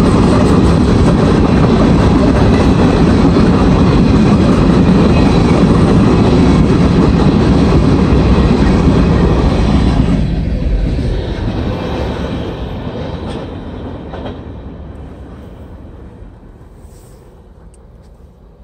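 A CSX unit grain train of loaded covered hopper cars rolls past on steel rails with a steady rumble of wheels. About ten seconds in, the end of the train goes by and the sound fades away steadily.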